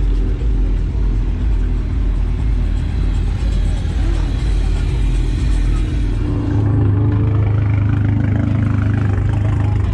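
Car engines running. About two-thirds of the way in, one engine's steady low drone grows louder and higher.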